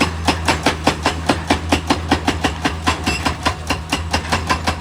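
Rapid, evenly paced hammering from a heavy machine's percussion tool, about five or six strikes a second, over the steady drone of its diesel engine.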